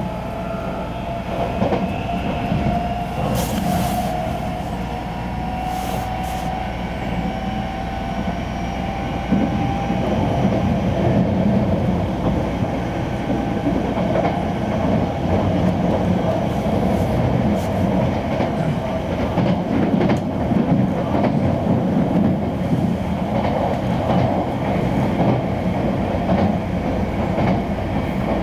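Keisei New AE-type electric train running at speed, heard from inside the car: a steady rumble of wheels on rail with clicks from the rail joints and a steady whine over it, getting louder about nine seconds in.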